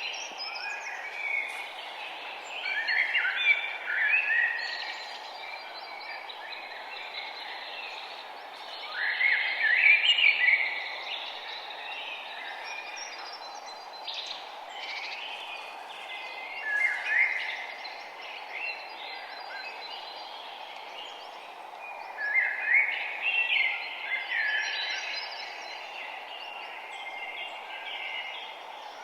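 A songbird singing short, jumbled phrases, one every six seconds or so, over a steady low background hiss.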